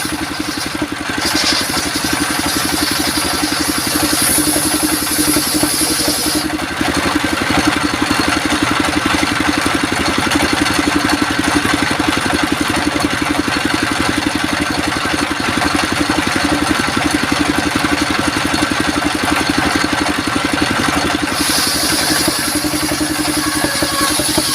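Engine-driven circular sawmill running steadily with a fast, even engine pulse; a high hiss rises over it a few seconds in and again near the end.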